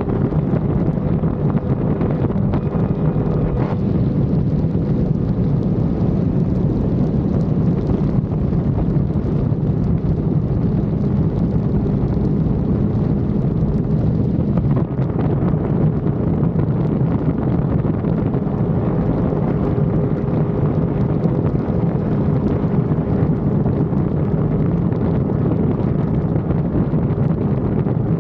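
Sport motorcycle cruising at a steady speed, its engine holding a constant hum under heavy wind rush buffeting the action camera's microphone.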